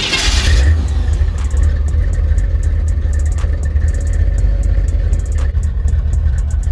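Car engine running with a deep, steady exhaust rumble, after a short loud burst at the start.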